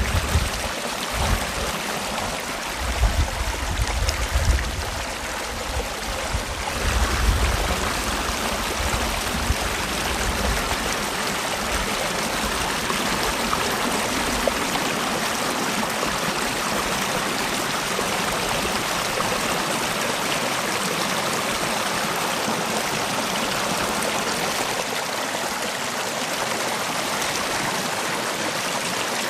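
Mountain valley stream running over rocks, a steady even rushing. A low rumble comes and goes during the first seven seconds.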